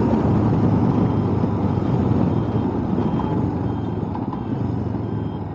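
Royal Enfield Himalayan's single-cylinder engine running with wind rush, heard through a microphone inside a full-face helmet with the visor down; the level eases off gradually as the bike slows. From about two seconds in, a faint high beep repeats roughly every two-thirds of a second.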